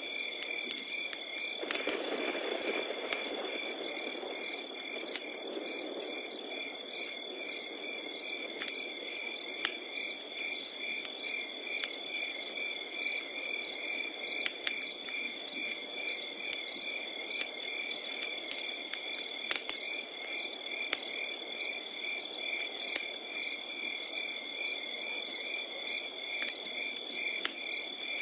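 Wood campfire crackling with scattered sharp pops over a low rush, under a steady chorus of crickets and other insects: one continuous high trill and a regularly pulsing chirp.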